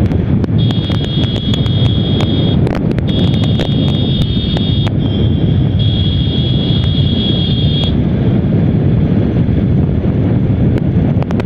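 Wind rushing over the microphone of a motorcycle ridden at highway speed, a steady low rumble of wind and road noise. From about half a second in to about eight seconds, a high steady tone sounds in three or four stretches with short gaps.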